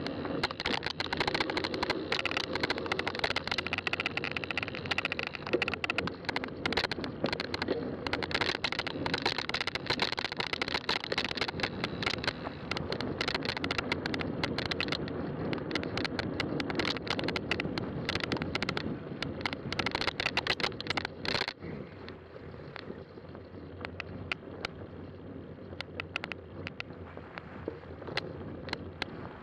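Fat-tire bike being ridden along a trail: rolling tyre noise with frequent sharp clicks and rattles from the bike over bumps. It turns quieter and duller a little over two-thirds of the way through.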